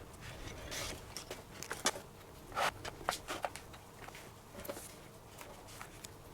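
Scattered rustles and light clicks of a leather baseball glove being handled during relacing, with several short scrapes about a second in and near three seconds in.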